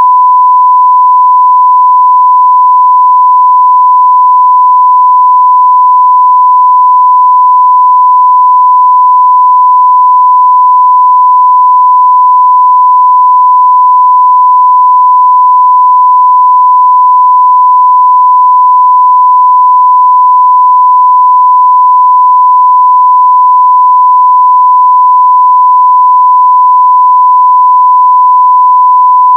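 A 1 kHz sine-wave audio test tone at full scale (0 dB): one pure, steady pitch held without any change.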